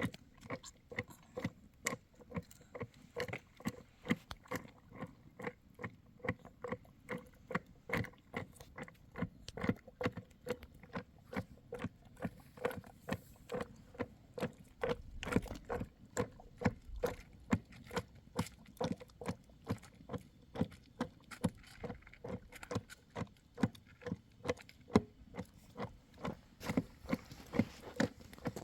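A long series of short, light knocks or clicks at an irregular pace of about two to four a second, over a faint steady hum.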